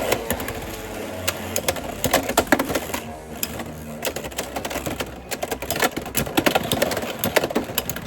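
Beyblade X spinning tops clashing and rattling against each other and the plastic stadium: a dense run of rapid, irregular clicks and knocks.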